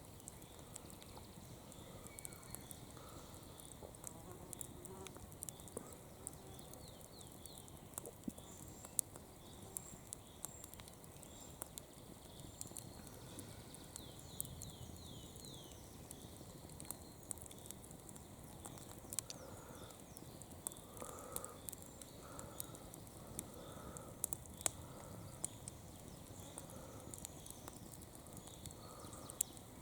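Campfire crackling quietly, with scattered sharp pops and snaps. Faint short chirps can be heard in the background, with soft repeated calls in the second half.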